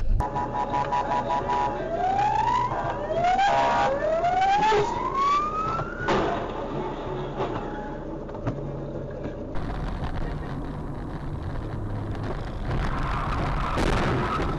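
A police siren wailing in repeated rising sweeps over vehicle engine and road noise. About ten seconds in, the sound changes to steady engine and road noise with no siren.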